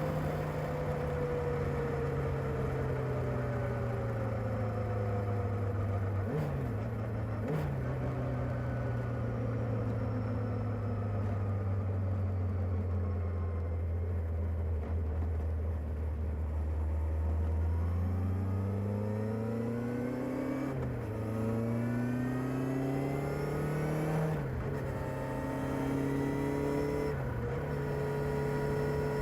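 Kawasaki ZR-7S motorcycle's air-cooled inline-four running on its stock exhaust. The engine note sinks slowly as the bike slows for most of the first twenty seconds, with two short blips along the way. It then pulls hard, the pitch climbing and dropping back at three upshifts.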